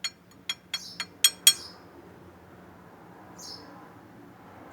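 About seven sharp metallic clinks in quick succession over the first second and a half, growing louder, as loose metal engine parts are handled. A short high chirp follows about three and a half seconds in.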